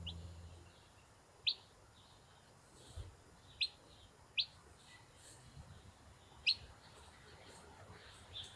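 Newly hatched chicks peeping: five short, sharp, high peeps spaced a second or two apart, with a soft low thump about three seconds in.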